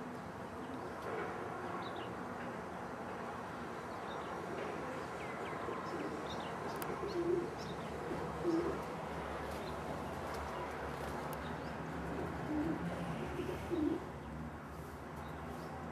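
Racing pigeons cooing: a few short, low coos in the second half, with faint chirps over a steady background noise.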